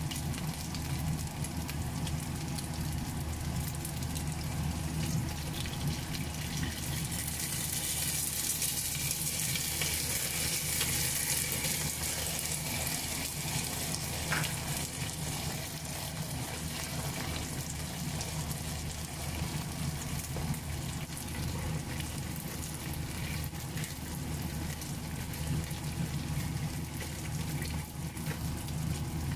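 Pan-fried buns (sheng jian bao) sizzling in oil in a nonstick pan as their bottoms brown: a steady frying hiss that gets brighter for several seconds about a quarter of the way in, with a single brief click about halfway through.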